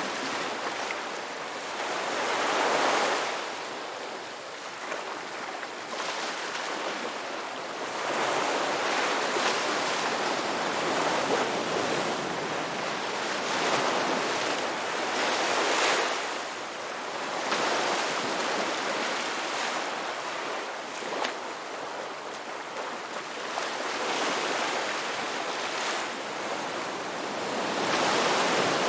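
Ocean waves breaking and washing on a rocky beach, the surf swelling and easing every few seconds.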